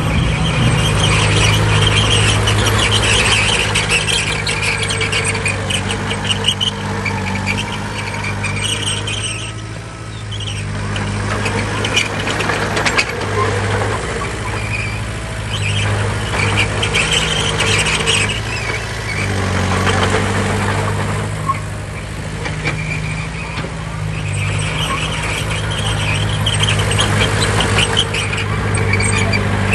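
Heavy diesel earthmoving machinery running under load, with high metallic squealing coming and going over the engine. The engine eases off briefly twice, about a third of the way in and again past the middle.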